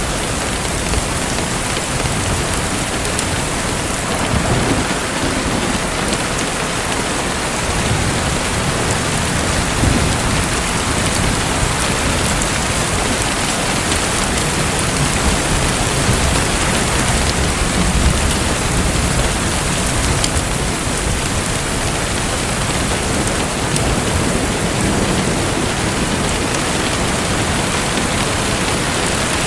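Steady, dense rushing and pattering of water, with an uneven low rumble underneath.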